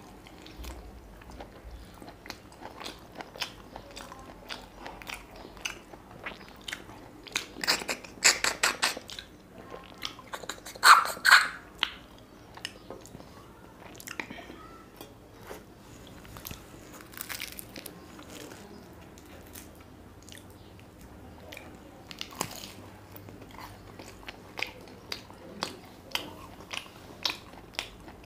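Close-miked eating: a person biting and chewing mutton curry meat off the bone, with many wet mouth clicks and two louder bursts of crunching about eight and eleven seconds in.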